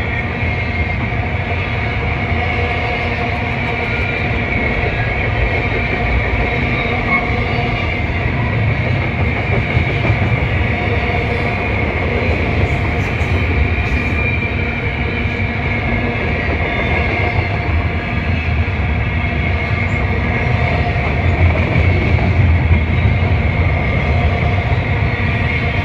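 Double-stack intermodal container train of steel well cars rolling past at speed: a steady rumble of wheels on the rails with steady high ringing tones above it.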